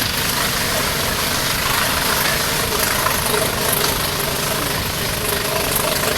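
Diesel locomotive engine running steadily, a constant mechanical drone mixed with rail and carriage noise.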